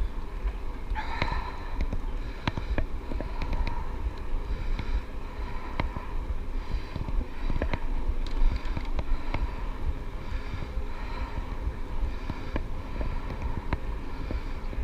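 Electric bike being ridden along a track, with wind on the microphone making a steady low rumble and many small clicks and knocks scattered throughout.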